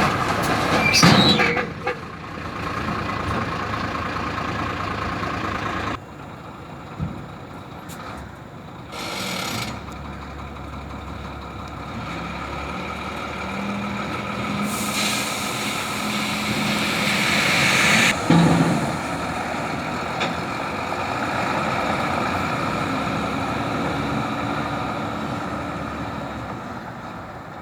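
Dump truck's diesel engine running steadily. Loud sounds come in the first two seconds, and a loud hiss lasts about three seconds past the middle before cutting off suddenly.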